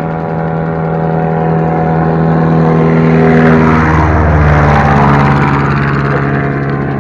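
Propeller-driven airplane making a low pass: a steady engine drone that grows louder, peaks, and drops in pitch about four seconds in as it goes by.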